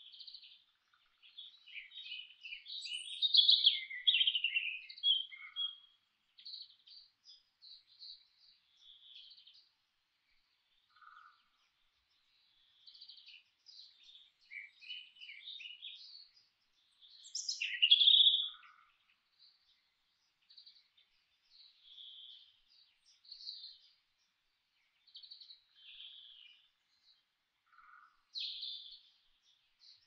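Songbirds chirping and singing in short, high phrases with pauses between them; the loudest bursts come a few seconds in and again a little past halfway.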